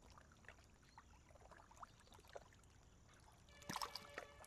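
Near silence: faint ambient sound with scattered soft ticks and chirps, and a brief cluster of slightly louder short sounds near the end.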